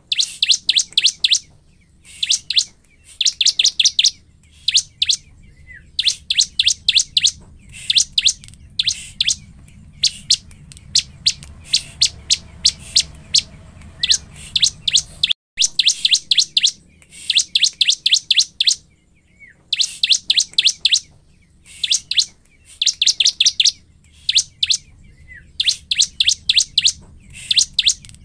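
Bar-winged prinia (ciblek) singing: short bursts of rapid, sharp, high chipping notes, repeated about every second or two.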